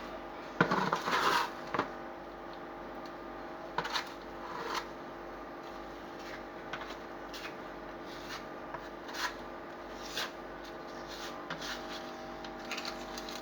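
Scraping, rubbing and light knocks of hand work as the spot opened for leak detection is closed up again. The handling is busiest about a second in, then comes as sparse short scrapes and clicks over a faint steady hum.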